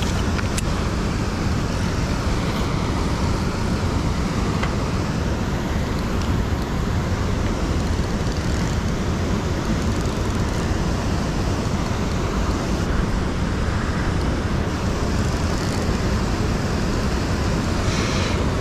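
Steady, loud rushing of fast-flowing river water.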